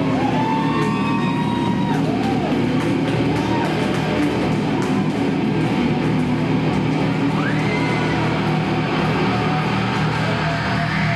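Live rock band playing, with amplified guitar, heard through a poor, muddy audience recording.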